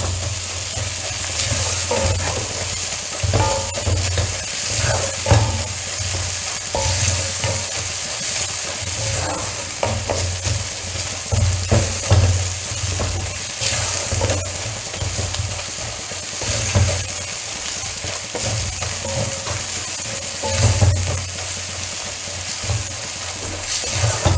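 Onion and tomato masala with crushed ginger and garlic frying in a pan, sizzling steadily, with frequent scrapes and taps of a spatula stirring it. This is the sauté stage before the spice powders go in, with the onion and tomato softening.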